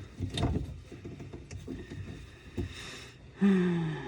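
A few light knocks and clicks of hand work with tools and parts. Near the end comes a short hum from a voice, falling in pitch.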